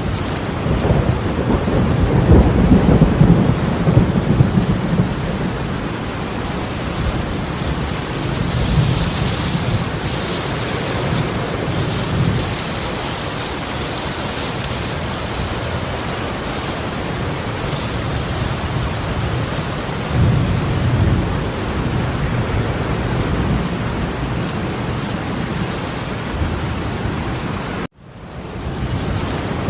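Heavy torrential rain, a steady hiss, with deep low rumbles that swell a few seconds in and again about twenty seconds in. The sound cuts out suddenly near the end and fades back in.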